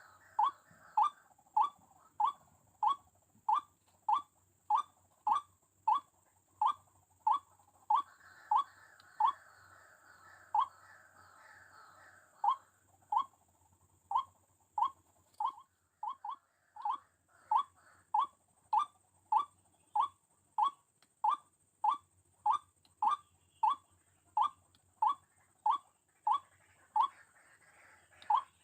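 White-breasted waterhen call: one short, slightly falling note repeated steadily about three times every two seconds, with a few brief pauses.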